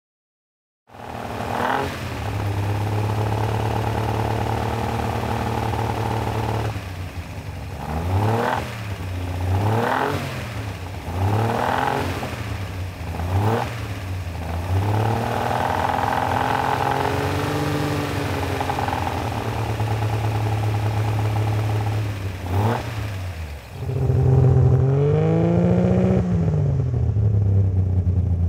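AC Aceca's 2.0-litre Bristol 100D2 straight-six engine running. It idles steadily, is blipped several times in quick succession, rises and falls in a longer rev, and swings to higher revs near the end.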